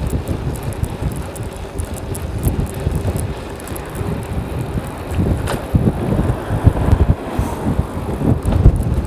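Strong wind buffeting the microphone of a cyclist riding a bicycle: a loud, gusting low rumble with scattered small clicks and rattles.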